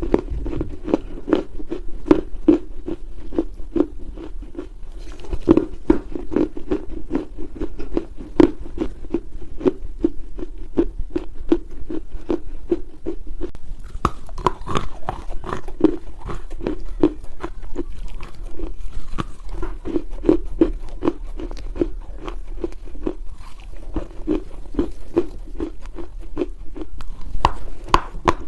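Chunks of dry Chinese loess clay being bitten and chewed close to the microphone: a steady run of soft crunches, several a second.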